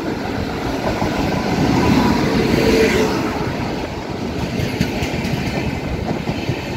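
Express passenger train pulling into a station, its coach wheels clattering over the rail joints in a dense, uneven run of knocks over a steady rolling rumble, loudest about two to three seconds in.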